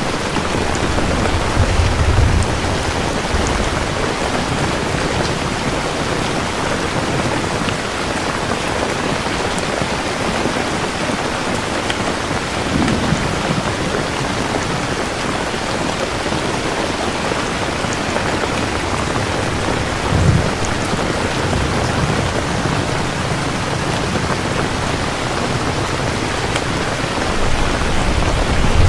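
Steady heavy rain with low rumbles of thunder, several times: about 2 seconds in, around the middle, twice about two-thirds through, and again near the end.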